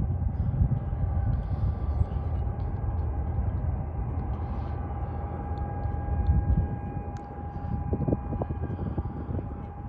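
Jet airliner engines at takeoff: a deep rumble with a steady whine over it, the rumble easing off after about six and a half seconds.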